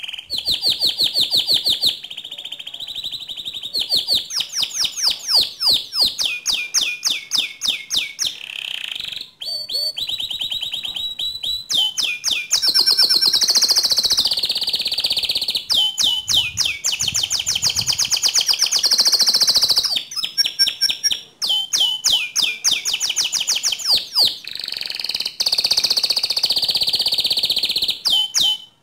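Domestic canary singing a long, loud song of rapid rolling trills and fast repeated sharp notes, switching to a new phrase every second or two. The song stops abruptly at the end.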